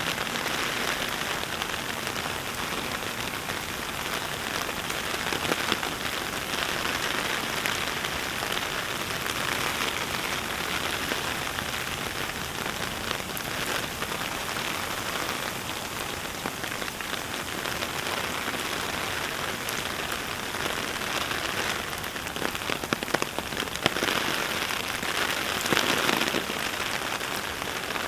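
Steady heavy rain falling, a continuous patter of drops, swelling a little louder for a few seconds near the end.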